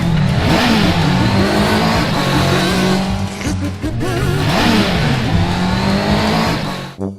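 Cartoon race-car engines running and revving hard, their pitch swooping down and back up twice like cars passing by.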